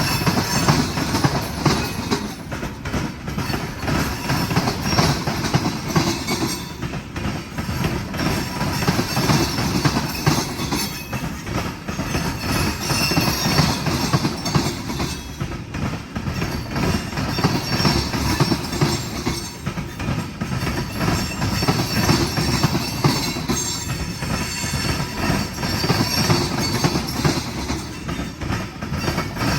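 Freight cars, mostly tank cars, rolling past steadily: steel wheels rumbling and clacking over the rail joints, with wheel squeal coming and going.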